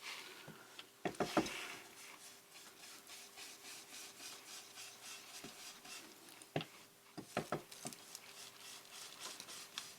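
Ink blending brush rubbing and dabbing around the edges of paper in soft, repeated strokes, with a few light taps.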